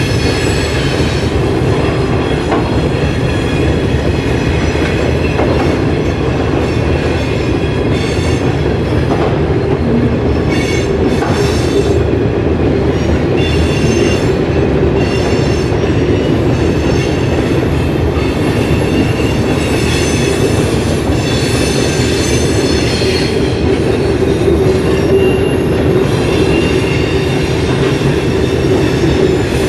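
Freight train rolling past, steel wheels clattering on the rails, with high-pitched wheel squeals coming and going over the steady rumble.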